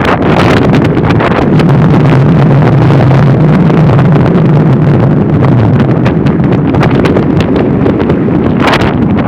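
Strong storm wind gusting and buffeting the microphone in a heavy rainstorm, a loud, low rumbling rush that swells for a few seconds near the start.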